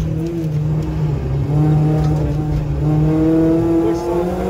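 Renault Clio 3 RS rally car's 2.0-litre four-cylinder engine heard from inside the cabin, pulling hard in second gear. The revs climb steadily through the second half.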